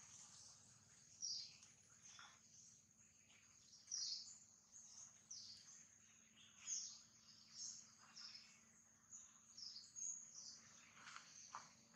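Small birds chirping faintly, short high chirps repeated about once a second, some in quick pairs.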